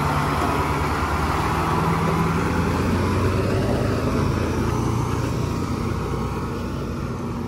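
Cab-over fire engine's diesel engine running under the cab, heard from inside while driving: a steady drone that dips slightly in pitch about three seconds in and eases off a little near the end.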